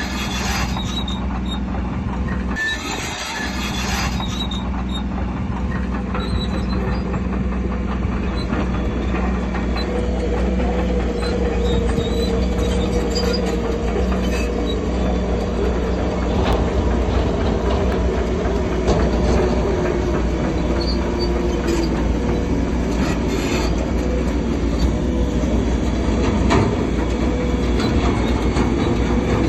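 Bulldozer's diesel engine running steadily under load while its steel tracks squeal, with a wavering squeal coming in about ten seconds in.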